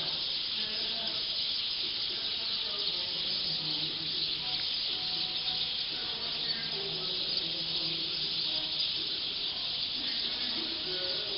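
A large flock of black birds calling all at once as they settle to roost in a tree, blending into a dense, steady high-pitched din.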